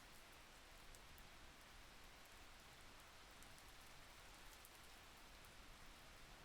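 Faint, steady rain: an even hiss with scattered soft drop ticks.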